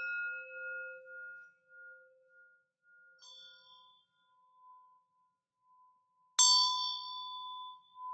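Singing bowls struck and left to ring at two pitches: a lower bowl struck at the start, its wavering tone dying away over about four seconds, then a higher bowl struck lightly about three seconds in and struck harder about six seconds in, its tone holding on.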